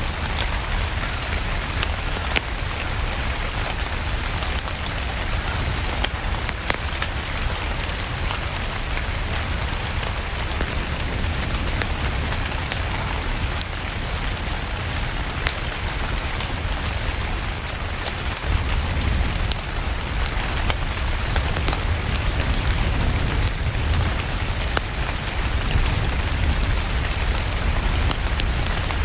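Steady rain with a deep low rumble, mixed with the scattered sharp crackles of a wood fire burning in a fireplace; it grows slightly louder about two-thirds of the way through.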